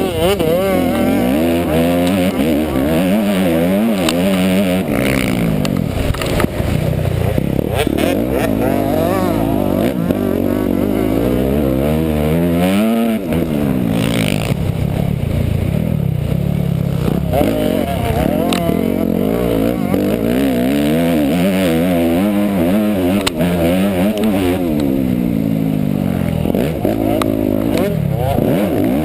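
Motocross motorcycle engine under hard riding, its pitch repeatedly climbing and dropping as the throttle is opened and shut.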